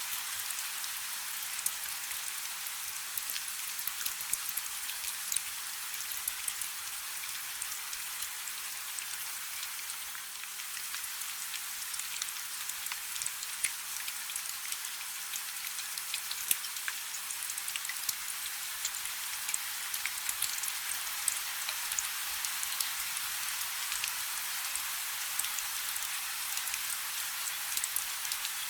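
Steady rain falling on a river: a dense, even hiss sprinkled with many sharp individual drop impacts.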